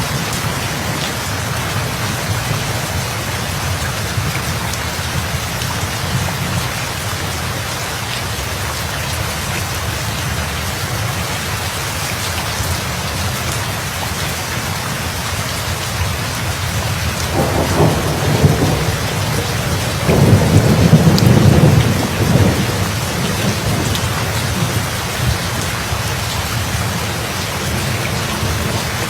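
Steady heavy rain with thunder rumbling twice past the middle, the second roll the louder and longer.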